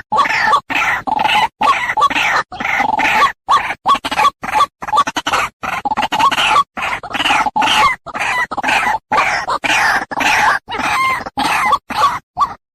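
White-breasted waterhen calling: a rapid run of loud, harsh croaking calls, broken by many short gaps of dead silence.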